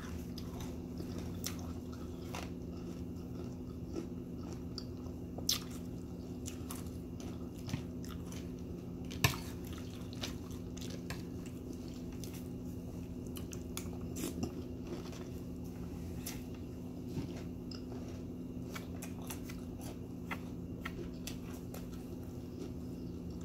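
Close-up chewing and crunching of Honey Nut Cheerios cereal in milk, with small wet mouth sounds and a few sharp clicks, the loudest about five and nine seconds in. A steady low hum runs underneath.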